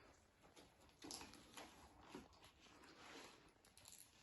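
Near silence: room tone with a few faint soft rustles.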